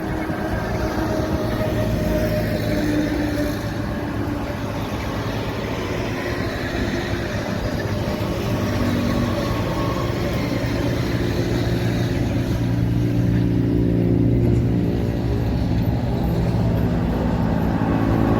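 Truck engine traffic: a steady engine drone that grows slightly louder in the second half.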